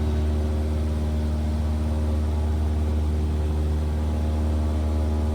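Cessna 172R's four-cylinder Lycoming engine running at a steady speed: an even, low drone heard from the cockpit.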